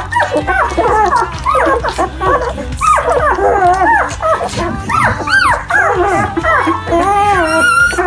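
A litter of young puppies whining and yelping, many short high cries overlapping and sliding up and down in pitch, over background music.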